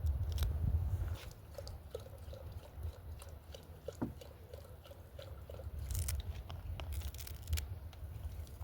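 Knife cutting vegetables: scattered crunches and light scrapes, over a low steady rumble.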